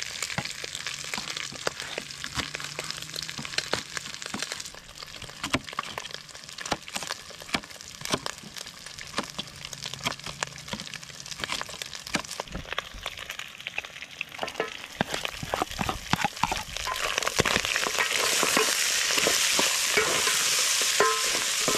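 Food frying in oil, with a steady sizzle full of small crackles and pops. About seventeen seconds in, the sizzle swells and grows louder.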